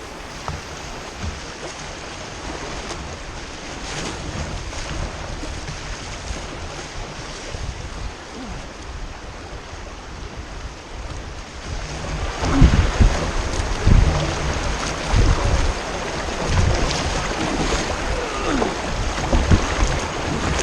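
River water rushing around a kayak, with wind buffeting the microphone in gusts that grow louder about halfway through.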